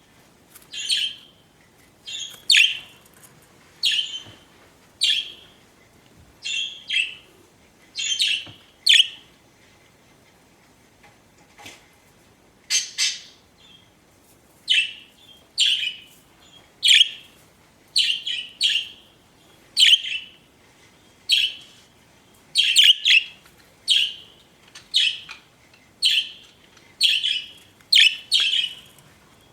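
Pet budgerigars (budgies) giving short, sharp chirps, roughly one a second, with a pause of a couple of seconds about midway.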